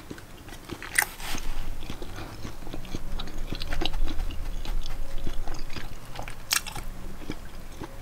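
Person chewing a mouthful of homemade chicken quesadilla close to the microphone, with many small wet mouth clicks and two louder crisp crunches, about a second in and past six seconds.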